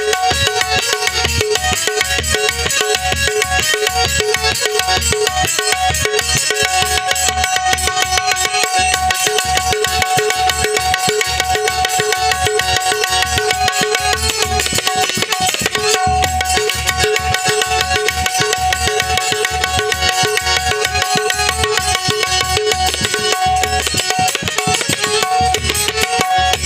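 Instrumental interlude of a Marathi gavlan devotional song: hand drums play a steady beat under held melodic notes, with no singing.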